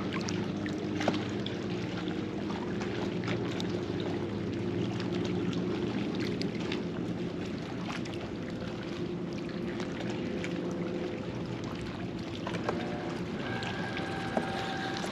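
Electric trolling motor of an Old Town Autopilot 120 kayak running steadily, a low even hum, with water lapping and trickling against the hull.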